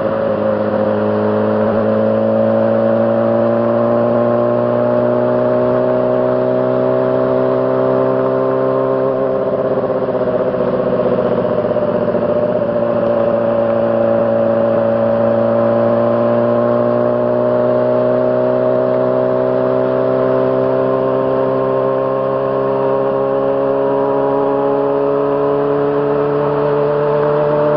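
2006 Honda CBR600RR's 599 cc inline-four engine running at a steady, moderate speed while being ridden. The pitch rises and falls gently, with a small dip about ten seconds in, as the throttle is eased and rolled back on.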